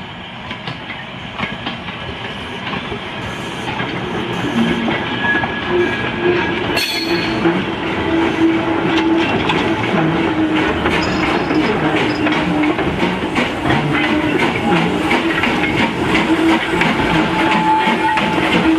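A train rolling past on a heritage railway, its wheels clacking over the rail joints in a dense run of clicks. It grows louder over the first few seconds, then holds steady.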